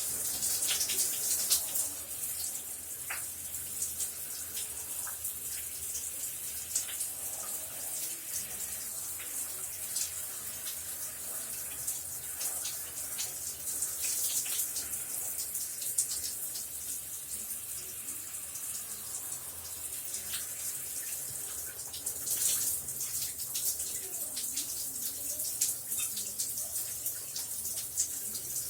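Shower running steadily: a constant hiss of falling water with irregular small splashes and drips.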